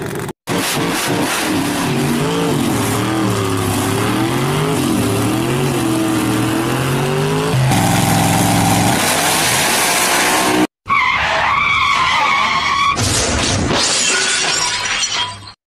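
Car engine sound effect revving up and down, then a tyre-squeal-like screech, in clips that cut off abruptly, once near the start, once about 11 seconds in and again just before the end. No engine is on the wooden cart, so the engine sound is dubbed in.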